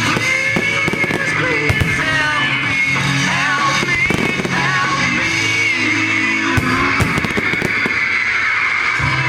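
Fireworks bursting and crackling over music played for the display, with a string of sharp bangs around four and a half to seven seconds in.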